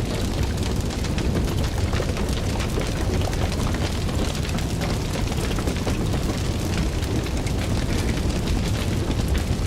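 Fire burning steadily, a low rumbling roar with many small crackles and pops.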